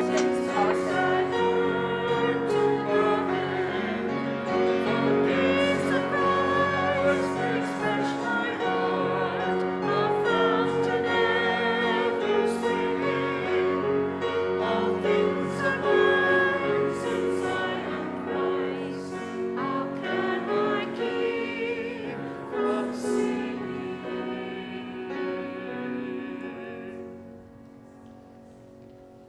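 Congregation singing a hymn with instrumental accompaniment. The singing draws to a close and the final chord dies away a couple of seconds before the end.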